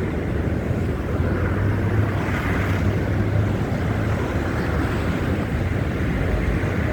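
Steady low rumble of traffic mixed with wind noise on a handheld phone's microphone, with no distinct events.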